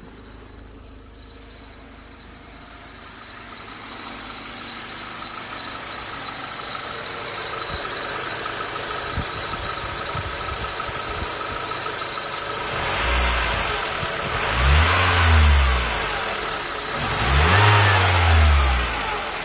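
A 1994 Mercedes C202's 1.8-litre petrol four-cylinder engine idles steadily, then is revved up and let fall back about three times near the end. The last two revs are the highest and loudest.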